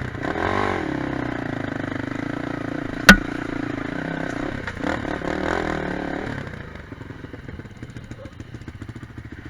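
Quad bike engine revving hard, its pitch rising and falling for about six seconds, then fading to a lower, quieter running. There is a single sharp knock about three seconds in, the loudest sound here.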